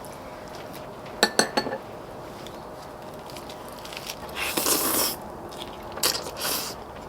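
Utensils clicking against dishes a few times about a second in, then two louder bursts of crunchy biting and chewing.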